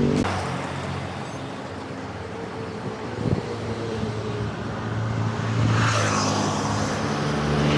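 Road traffic heard from a bicycle: a motor vehicle's engine hum grows louder about two thirds of the way through, over a steady hiss, with one sharp click near the middle.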